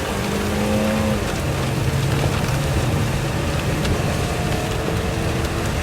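A car being driven, its engine and road noise heard from inside the cabin as it pulls away, with rain on the car.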